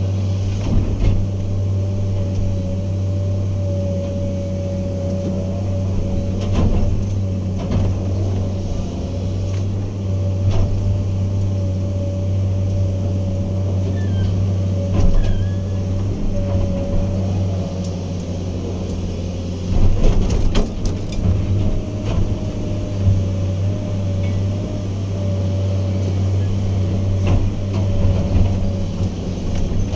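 Heavy earthmoving machine's diesel engine running steadily under load, with a steady high whine over the engine drone. Occasional clanks and knocks are scattered through, heaviest about two-thirds of the way in.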